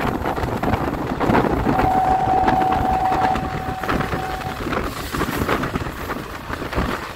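Passenger train running at speed, heard from on board: a steady rumble with wheels clicking and clattering over the rails. A little under two seconds in, a single steady high tone sounds for about three seconds.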